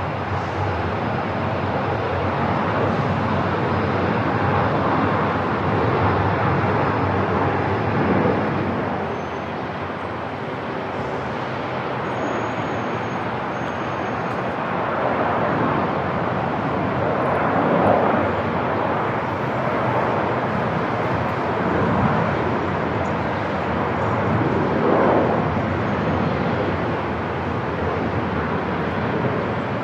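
Airport ambience: a steady wash of machine and room noise that swells louder several times, most at about eighteen and twenty-five seconds in.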